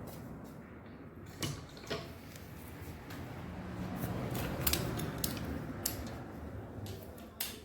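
Hand tools and metal parts clicking and creaking as a Yamaha RayZR scooter engine is worked on, with a handful of sharp clicks scattered through.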